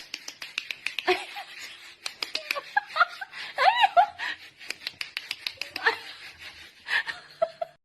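A person laughing softly in short giggles, over scattered light clicks and knocks.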